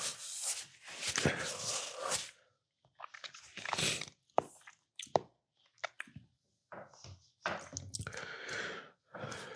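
Close-up eating sounds: irregular chewing and mouth noises broken by gaps, with a few sharp clicks.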